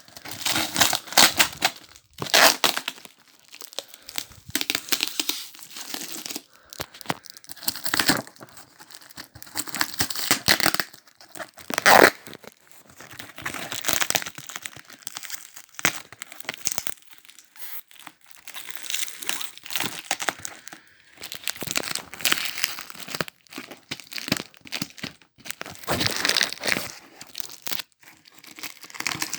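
Parcel packaging being torn open and crumpled by hand: irregular rips and crinkles throughout, with one sharp, loud rip a little before halfway.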